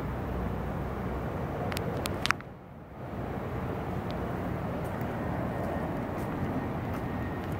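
Toyota Celica engine idling steadily, heard from behind the car near the exhaust. About two seconds in come a few sharp clicks, and the sound briefly drops away before the idle returns.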